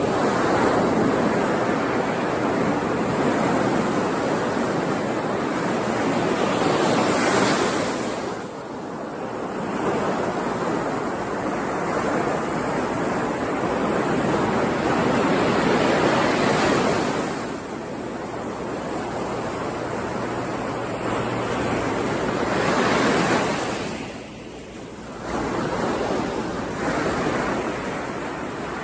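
Sea surf: waves breaking and washing in one after another, each surge swelling and falling away over six to nine seconds.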